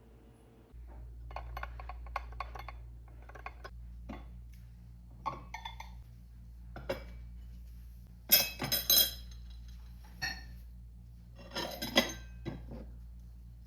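Dishes and glassware clinking and clattering in scattered knocks, with two louder bursts of clatter in the middle and near the end, over a low steady hum that starts about a second in.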